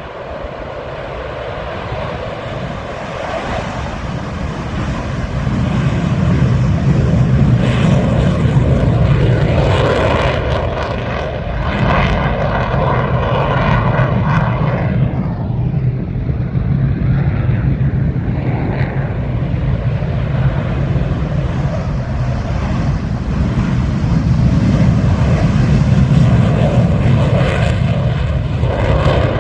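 Propeller aircraft engines running loud and steady, building up over the first several seconds and then holding.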